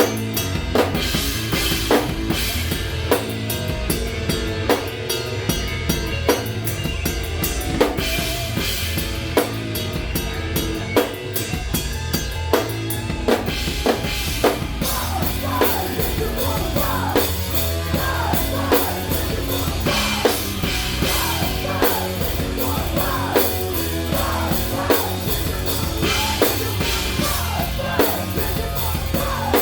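Live rock band playing a heavy groove: a drum kit keeps a steady beat of kick and snare over a thick low end, and from about halfway through, electric guitar notes bend and glide up and down.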